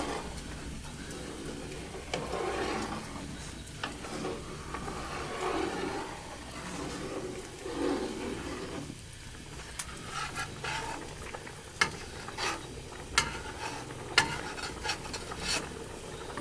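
Stirring in a cooking pot: slow scraping strokes every second or two, then a run of sharp clicks and taps of a utensil against the pot in the second half.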